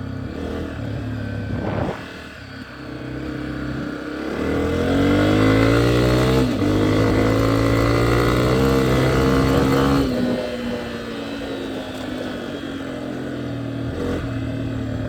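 Dirt bike engine under way: it runs at part throttle, then from about four seconds in revs up hard, climbing in pitch through a couple of gear changes, and drops back about ten seconds in to a lower, steady run.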